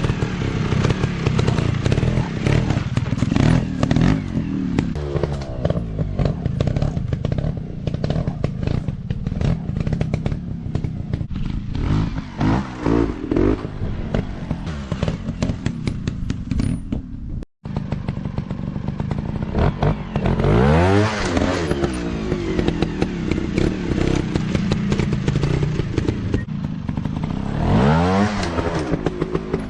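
Off-road dirt bike engines running and revving while riding over rough ground, with many clattering knocks throughout; near the end the engine revs up and back down twice.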